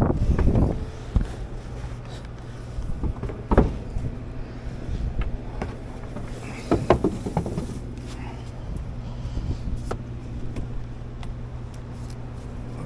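Steady low hum of a running air-conditioning system, with scattered knocks and clatter from handling equipment at the start, about three and a half seconds in and about seven seconds in.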